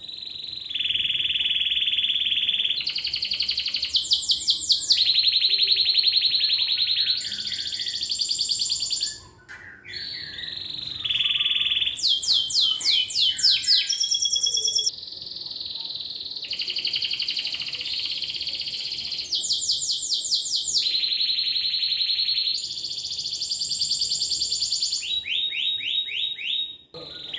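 Domestic canary singing a long, continuous song of fast trills and rapidly repeated notes that change phrase every second or two, with brief breaks about nine seconds in and near the end.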